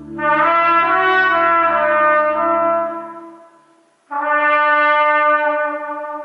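Cornet playing a sustained melodic phrase over low accompaniment that stops about three seconds in; after a short break, one long held cornet note begins abruptly and fades out, a closing note.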